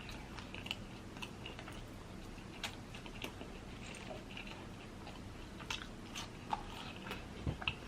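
A person chewing a mouthful of Philly cheesesteak sandwich on French bread close to the microphone: scattered small mouth clicks and soft crunches, a few louder ones near the end.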